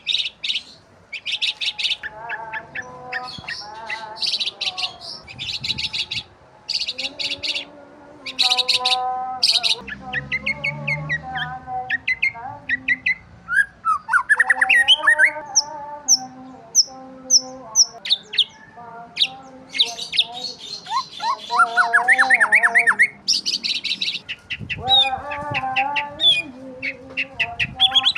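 Several birds chirping and calling together: rapid runs of short high chirps overlap with lower, bending calls and squawks.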